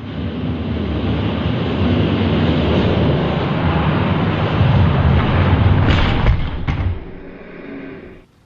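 Hot Wheels die-cast monster trucks rolling fast down a plastic track: a loud, steady rattling rumble of wheels over the track, with a couple of sharp clacks about six seconds in before it dies away.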